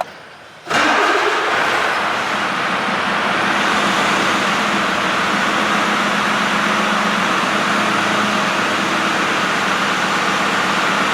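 2022 Mercedes-Benz Actros 2545 tractor unit's 12.8-litre straight-six diesel starting up: it fires suddenly under a second in and settles straight into a steady idle.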